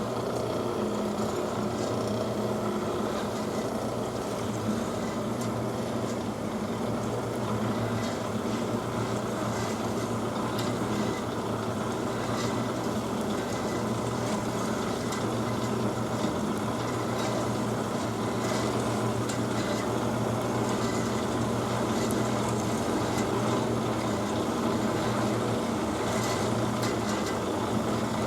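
DoAll C-916M horizontal band saw running: a steady motor and blade hum with faint, irregular ticking over it.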